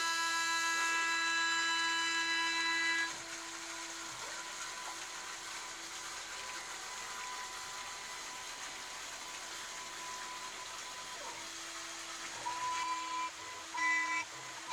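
A CNC milling machine running, with a steady whine that drops about three seconds in to a quieter hiss. Short tones that change pitch from move to move come in near the end.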